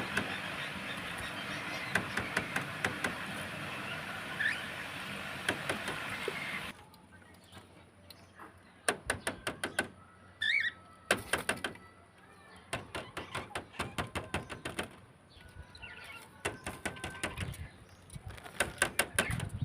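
Cockatiels chattering with short calls over a busy background for the first several seconds. After an abrupt change about seven seconds in, it turns quieter, with runs of rapid clicks and taps and a single short chirp.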